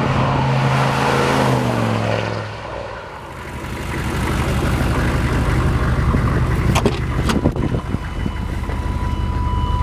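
GM 6.5-litre turbo-diesel V8 in a 1996 Chevy 1500 running, its engine note falling in pitch about two seconds in as the revs drop, then building back up and holding steady. A couple of sharp clicks come near the middle.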